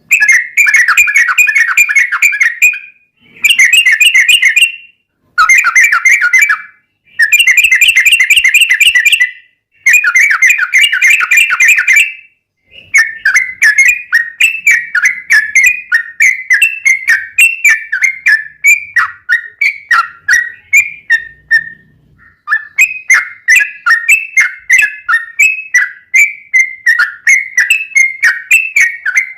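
Yellow-vented bulbul (trucuk) singing. It gives five rapid rattling trills of a second or two each, then runs on in a long string of quick separate whistled chirps, about three a second.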